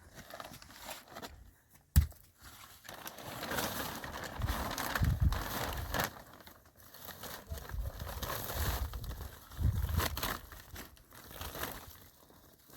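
Crinkling, rustling handling noise in uneven surges, with one sharp knock about two seconds in.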